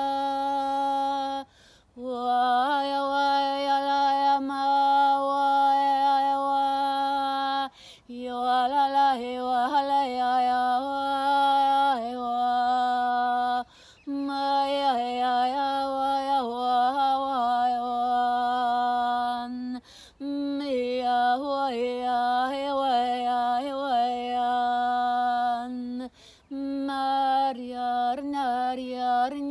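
A woman's voice singing wordless light language tones: long held notes broken by quick warbling ornaments, with short pauses for breath about every six seconds.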